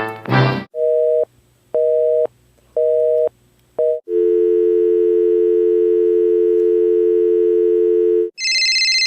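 Telephone line tones: a busy signal beeping four times, about once a second, then a steady dial tone for about four seconds, then a shrill high tone comes on near the end.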